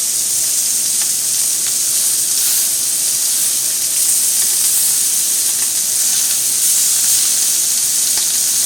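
Pork, beef, mushrooms and zucchini sizzling steadily on a Korean barbecue grill, a constant frying hiss with small pops and crackles.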